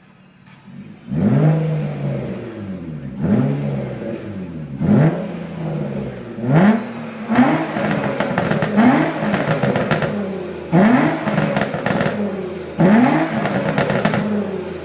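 2006 Nissan Maxima's 3.5-litre V6 revved in a series of quick blips through an aftermarket cat-back exhaust with a high-flow pre-cat, the note jumping up and dropping back about every second and a half to two seconds, seven or eight times after a second of low idle.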